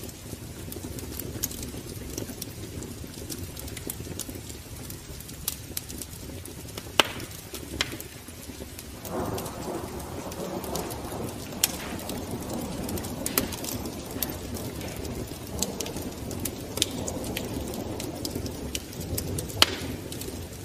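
Wood fire burning in a fireplace: a steady rushing hiss with irregular sharp crackles and pops. The flame noise grows fuller about nine seconds in.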